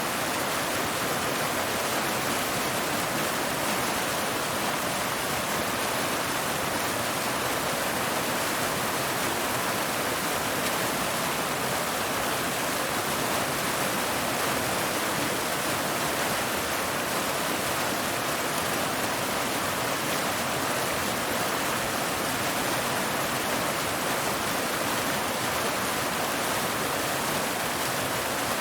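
Waterfall: water falling and splashing over rocks in a steady, unbroken rush.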